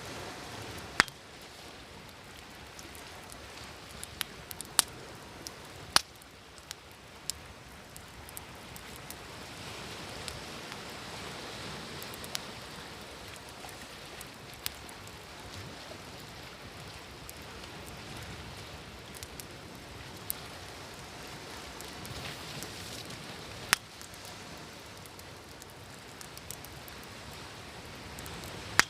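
Wood fire crackling, with a few sharp pops several seconds apart, over the steady wash of waves that swells and fades.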